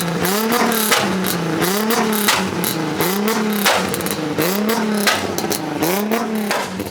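Car engine being revved in repeated throttle blips, about one a second, the pitch rising and falling with each blip, with sharp cracks in between.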